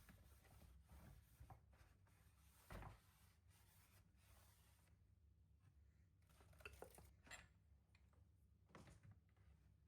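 Near silence: quiet room tone with a few faint, brief knocks and rubs of objects being handled.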